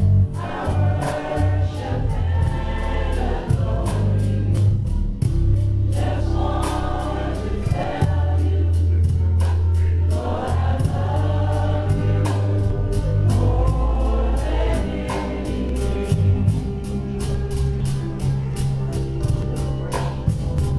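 Gospel music: a choir singing over a strong bass line and a steady drum beat.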